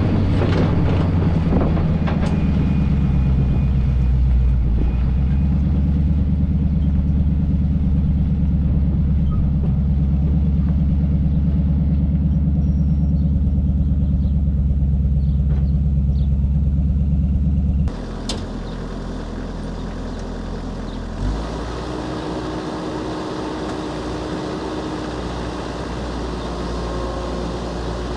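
1980 Chevy K20's 350 small-block V8 running at a steady speed through glasspack exhaust, until the sound cuts off suddenly about eighteen seconds in. A quieter, steady engine rumble carries on afterwards.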